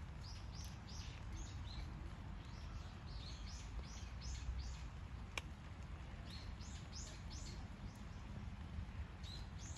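Small birds chirping in quick runs of short, high notes, over a steady low rumble. There is one sharp click about halfway through.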